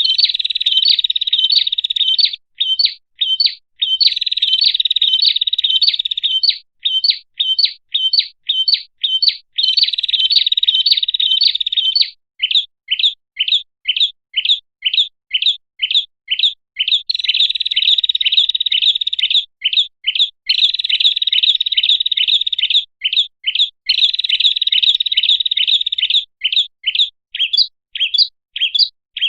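Prinia (prenjak) calls, as played for a bird lure: strings of sharp, high chirps, two or three a second, alternating with dense, rapid trilled chirping that lasts a few seconds at a time.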